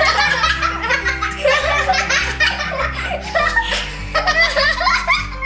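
Hearty laughter over background music.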